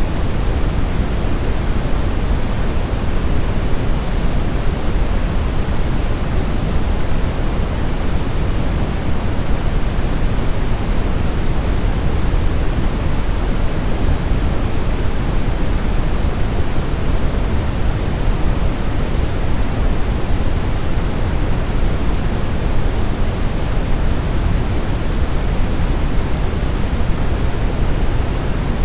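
Steady brown noise: an even, unchanging rush with most of its weight in the deep low end, like a distant deep rumble, with no events or variation.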